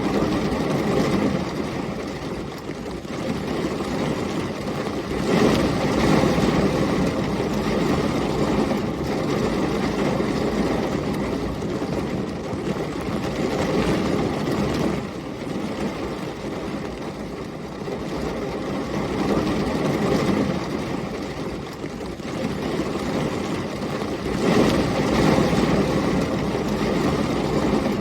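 Heavy rain and storm wind: a continuous rushing noise that swells louder twice, about five seconds in and again near the end.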